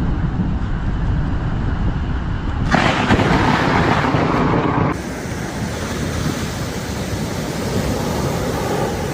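Stormy wind and surf noise with low rumbling wind on the microphone. About three seconds in, a much louder rushing hiss starts suddenly and cuts off just as abruptly about two seconds later.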